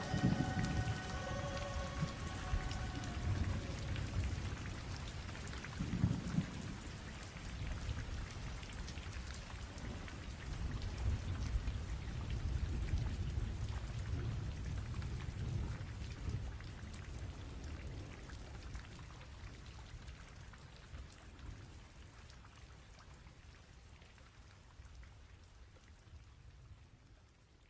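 Steady rain with low rolling thunder, slowly fading out. The last guitar notes ring out over the first few seconds.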